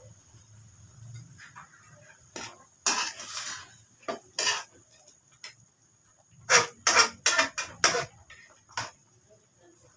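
Metal kitchen utensils clattering against pots and dishes: a few knocks and a scrape, then a quick run of about six knocks a little after the middle.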